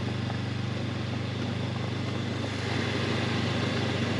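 Honda CB500X's parallel-twin engine running steadily while the motorcycle is ridden, with road and wind noise, getting a little louder about two-thirds of the way through.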